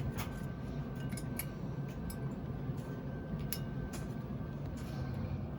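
Liquid fabric softener being poured into a washing machine's dispenser drawer, with scattered small clicks and taps, over a steady low hum.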